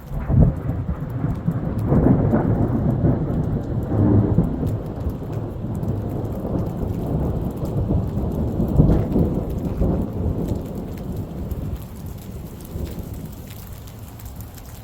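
Thunder breaks suddenly, then rolls and rumbles in several swells for about ten seconds before fading away. Rain falls throughout, with scattered drops ticking.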